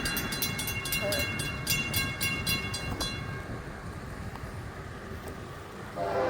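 Grade-crossing warning bell ringing in rapid, even strokes, stopping about three seconds in, over a low rumble. Near the end a locomotive horn starts to blow as the FEC train approaches the crossing.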